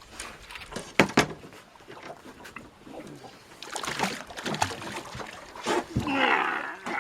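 Sharp knocks on a small fishing boat and water splashing as a hooked small shark is grabbed and brought aboard. The loudest knocks come about a second in.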